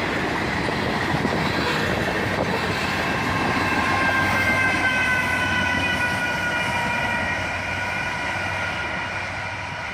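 Freight train cars rolling past on the rails, a steady loud rumble with wheel clatter. From about three seconds in, a high ringing sound of several tones joins it, drifting slightly lower and fading near the end.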